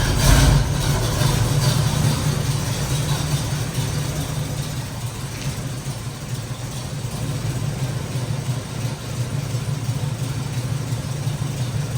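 Classic Pontiac Grand Prix's engine idling steadily on freshly changed oil, with a brief louder burst right at the start.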